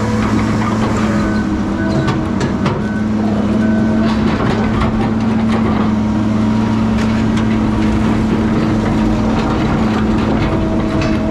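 Heavy logging machine's diesel engine running steadily at constant speed, with scattered short knocks and clanks.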